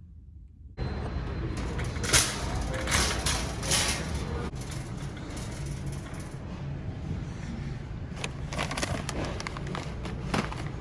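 Steady rumbling background noise that starts suddenly about a second in, with low hum and several sharp knocks or rattles scattered through it.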